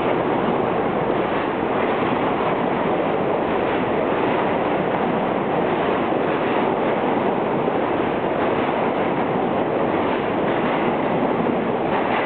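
Redbird refuse train of R33 subway cars departing the station, its wheels running on the rails with a steady noise and some clickety-clack.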